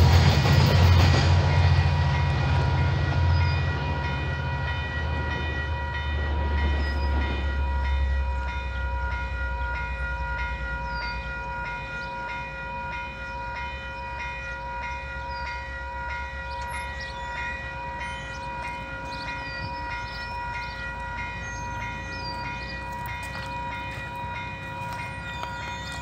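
Low rumble of a passing GO train and its EMD F59PH diesel locomotive fading away over the first several seconds. Under it, the level-crossing warning bell rings on in a steady repeating tone and stops at the end, when the crossing clears. Birds chirp faintly.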